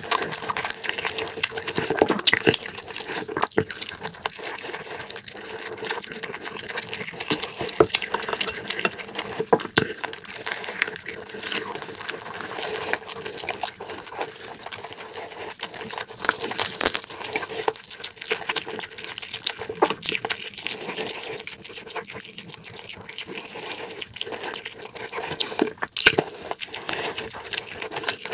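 Close-miked chewing of a mouthful of pan-fried meat and tofu: a dense, irregular run of wet, crackly mouth clicks and smacks.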